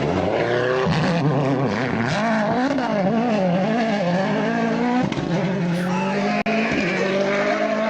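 Rally car engine at full throttle on a stage, the revs swinging rapidly up and down through throttle lifts and gear changes, then holding a steadier, slowly climbing note.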